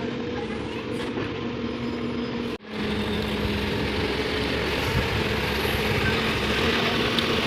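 Heavy machinery diesel engine running steadily with a constant hum. There is a sudden, momentary dropout about two and a half seconds in.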